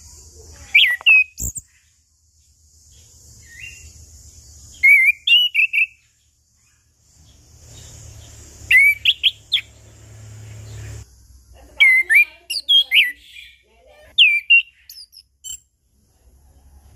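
Orange-headed thrush singing: loud, short phrases of quick whistled notes that sweep up and down, broken by pauses of a second or two, over a faint background hiss.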